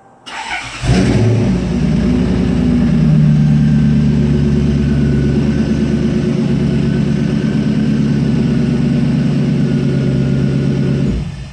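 1993 Lexus SC400's V8 engine revving up about a second in and then held steady at high revs for about ten seconds, dropping away near the end.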